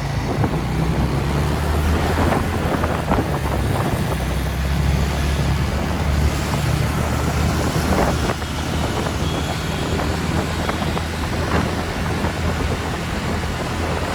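TVS Ntorq scooter's single-cylinder engine running steadily while riding, with wind rushing over the microphone and road noise.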